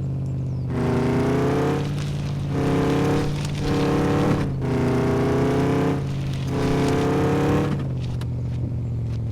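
Chevrolet Tahoe's V8 engine and exhaust running on the move, a steady low drone with a louder, higher droning tone that surges in and drops away about five times, every second or so.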